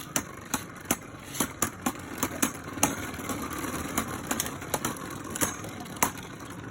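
Two Beyblade Burst Fornius tops spinning in a plastic stadium with a steady whirr, striking each other in sharp, irregular clacks about twice a second.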